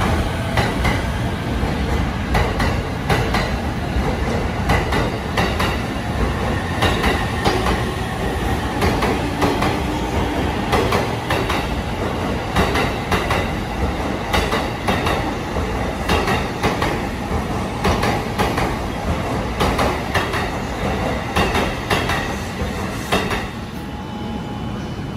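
JR E531-series electric train running past along the platform: steady rumble of the cars with a quick, irregular series of wheel clicks over the rail joints. The sound falls away somewhat near the end.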